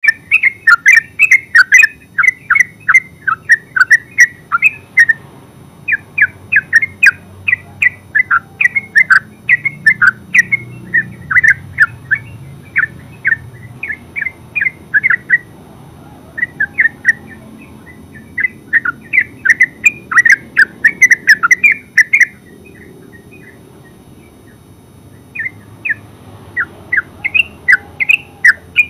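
Yellow-vented bulbul (terucuk) singing a rapid string of short, loud chattering notes, about three a second, in long runs with brief pauses and a longer break a little past the middle.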